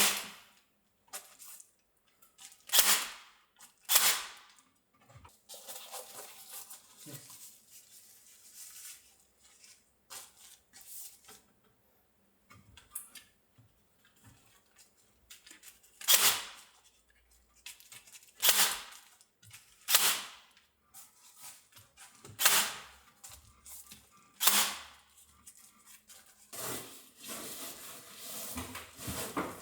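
Hand staple gun fixing foil insulation, firing with a sharp snap every few seconds: about eight loud shots with fainter clicks between. Near the end there is a rustling.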